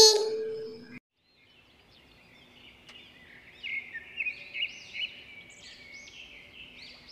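Small birds chirping in quick, short calls over faint outdoor ambience, the chirps growing busier from about three and a half seconds in.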